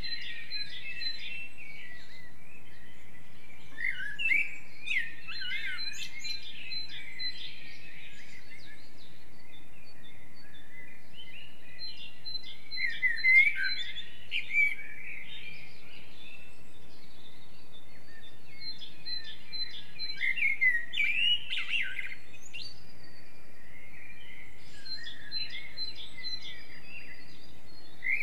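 Forest songbirds singing in repeated bouts of rapid, warbling phrases a few seconds long, each a few seconds apart, with thin high notes among them, over a steady faint hiss of background noise.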